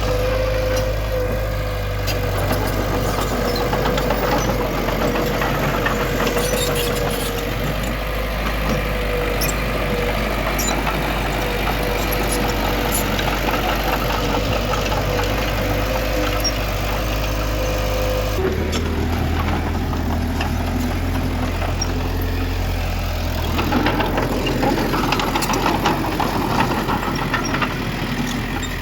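Heavy diesel construction machinery running steadily, with a steady whine over the engine drone. The sound changes abruptly about two-thirds of the way through, and near the end rattles and clatter rise over the engine.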